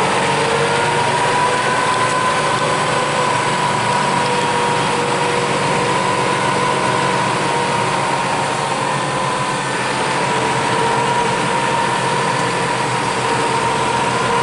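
Fendt 211 Vario tractor driving at speed, heard from inside its cab: steady engine and drivetrain noise with a high whine in it. The whine climbs at the start, eases a little about two-thirds of the way through, then climbs again.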